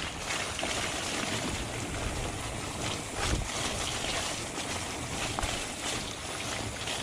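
Wind rushing over the microphone of a camera riding on a fat bike, with the tyres rolling over the dirt trail and a couple of low knocks from bumps, one about three seconds in and another past the five-second mark.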